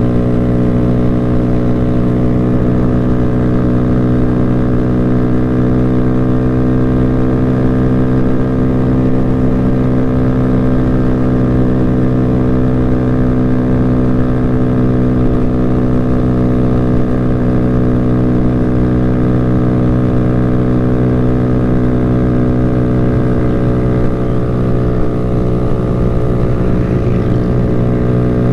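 Motorcycle engine running at a steady speed, its note holding an even pitch throughout, as when cruising; the note wavers slightly near the end.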